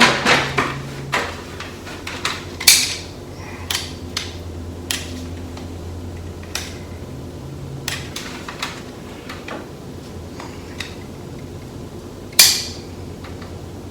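Scattered light clicks and knocks of hard tools and materials being handled during seam sealer work, with two sharper knocks, one near the start and one near the end, over a steady low hum.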